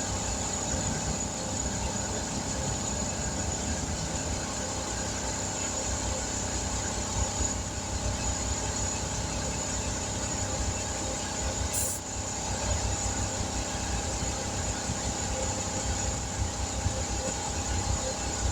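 A machine running steadily: a constant motor hum with a high whine over a low rumble, and a short click about twelve seconds in.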